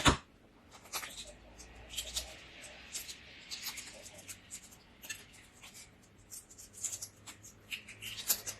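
Close-miked eating of balut: a sharp knock right at the start, then scattered small clicks and smacks of chewing.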